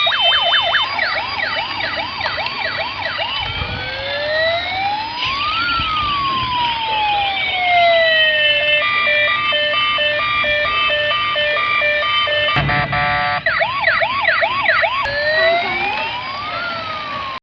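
Electronic sirens of two battery-powered toy police cars sounding at once. Their patterns overlap: a fast repeating yelp, a slow wail that rises and falls, and a stepped two-tone hi-lo.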